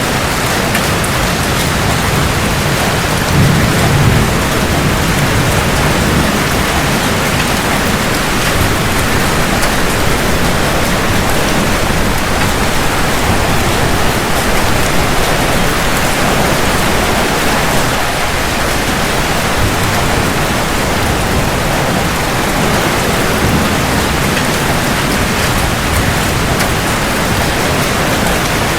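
Heavy rain falling steadily, with a low rumble of thunder swelling about three to four seconds in.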